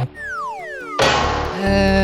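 Cartoon sound effects: a falling whistle glides down in pitch for about a second, then a sudden landing hit about a second in, followed by held notes of background music.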